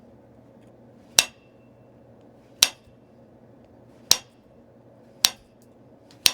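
Flintknapping: five sharp clinks of a knapping tool striking the edge of a stone point, about one to one and a half seconds apart, each with a brief ring. These are flakes being knocked off to thin the piece.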